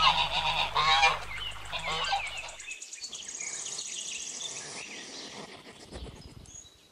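Geese honking for the first two and a half seconds, then fainter high-pitched peeping and chirping of goslings.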